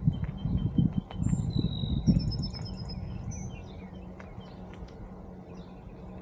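Songbirds singing a few short whistles and trills, over a low rumble that is loudest for the first two seconds or so and then eases.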